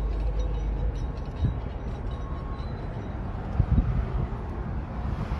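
Steady low rumble of heavy machinery and rail cars at work, with wind buffeting the microphone. Dull low thumps come about a second and a half in and, louder, around three and a half to four seconds in.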